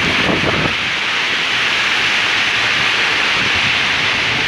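Heavy rain pouring down in a storm: a steady, dense hiss.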